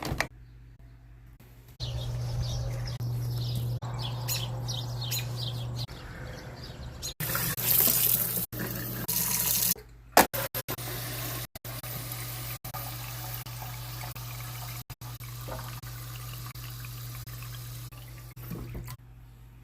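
Water running from a kitchen tap, with a steady low hum underneath. The rush is loudest for a few seconds in the middle and stops shortly before the end.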